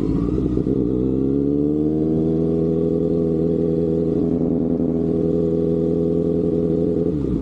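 Kawasaki inline-four motorcycle engine running, its pitch rising briefly about a second in and then held at steady revs, dropping away just before the end.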